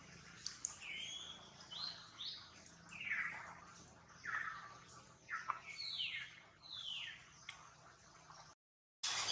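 A bird calling in the trees: a run of short notes, each sliding downward in pitch, repeated about once a second.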